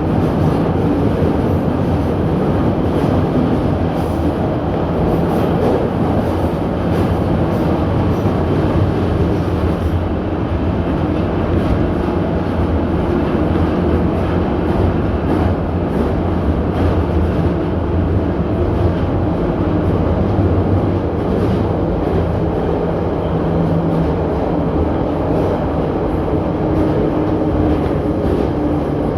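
Metro train of the 81-717.6 type running between stations, heard from inside the car: a loud, steady rumble of wheels on rail and running gear, with a faint hum that becomes clearer near the end.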